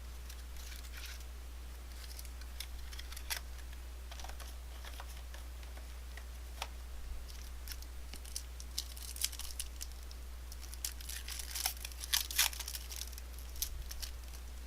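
A trading-card mini box and its wrapped pack being opened by hand: scattered crinkling, tearing and clicking of wrapper and cards, busiest near the end. A steady low hum sits underneath.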